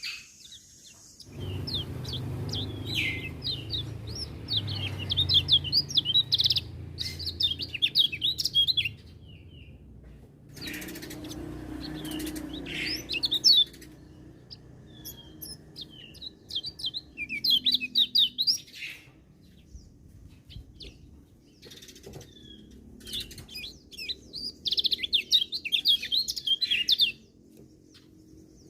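Kecial kuning white-eye singing: bursts of fast, high twittering notes, several seconds long, with short pauses and a few scattered calls between them. A low rumble runs underneath during the first half.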